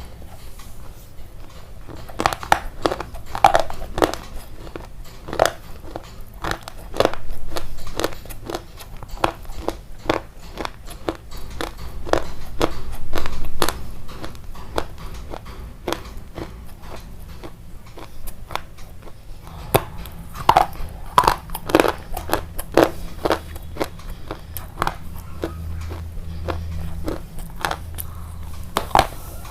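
Close-miked mukbang eating: crisp, crunchy bites and chewing, repeated irregularly, some in quick runs.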